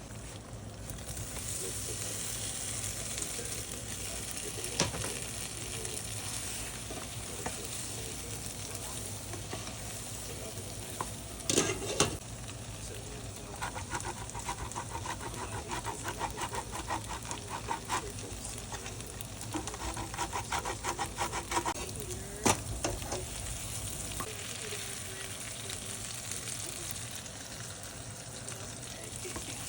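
Food sizzling in a hot pan, with a spoon or spatula stirring it in runs of quick strokes and knocking against the pan a few times.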